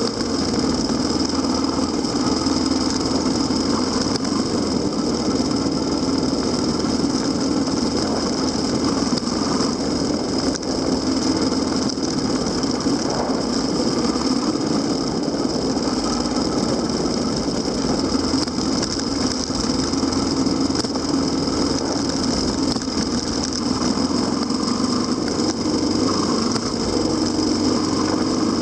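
Kawasaki KLX250SR's single-cylinder four-stroke engine running steadily, with a steady high hiss over it.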